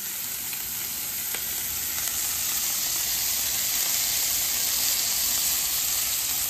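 Asparagus spears coated in olive oil and garlic sizzling on a hot Blackstone flat-top griddle, with mushrooms frying beside them. A steady frying hiss that grows a little louder over the first few seconds.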